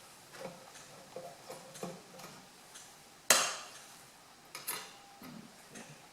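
Light metallic ticks and clicks of hand work on the wood heater's metal door, then one sharp clink about three seconds in that rings briefly, and a couple of softer taps after it.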